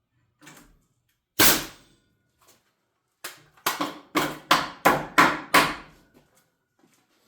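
Hammer blows on wood framing: one strike, then a quick run of about eight blows, about three a second, as of a nail being driven into a stud.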